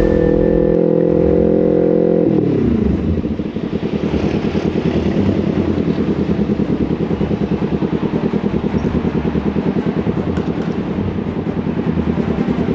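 Motorcycle engine running at steady revs, then the revs drop about two seconds in, and it settles into low revs with a fast, even pulsing beat.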